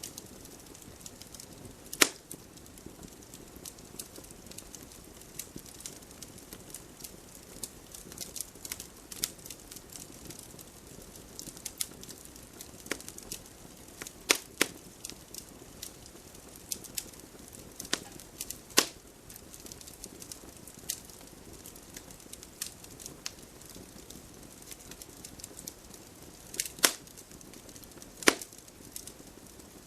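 Wood fire crackling in a fireplace: a steady soft hiss with constant small crackles and a handful of loud, sharp pops, the loudest about two seconds in and another near the end.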